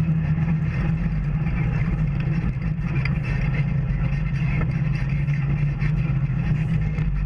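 Off-road vehicle's engine running at a steady pace.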